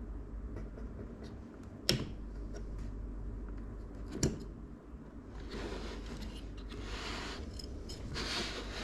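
Hands handling PC-building parts. Two sharp clicks come about two seconds apart, then rustling and scraping in two stretches near the end.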